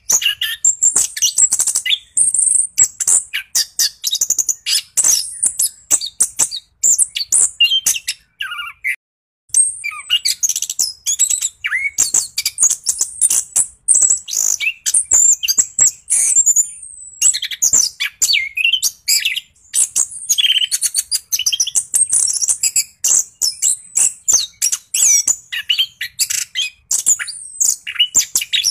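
Orange-headed thrush singing continuously in fast, varied high phrases, a steady rolling flow of song with one short break about nine seconds in.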